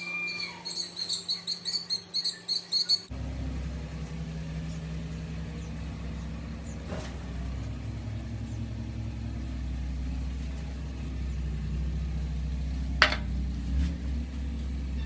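Small birds chirping in a fast, sharp run of high calls for about three seconds. Then a sudden switch to a steady low rumble with a faint high whine, and a single click near the end.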